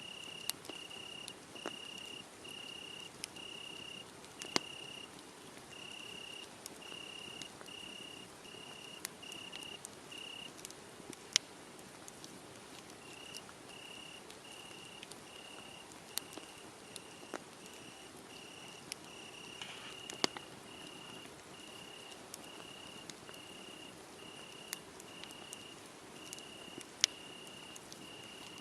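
Crickets chirping steadily at about two chirps a second, with a short pause about ten seconds in, over a crackling wood fire that gives sharp pops, a couple of them loud.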